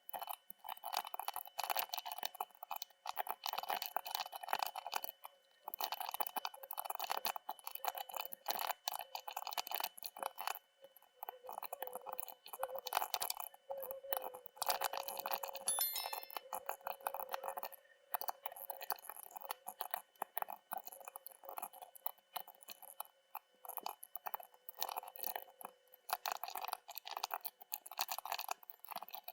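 Epomaker Skyloong GK75 mechanical keyboard being typed on in a fast, dense run of key clicks that sounds sped up, broken by a few short pauses.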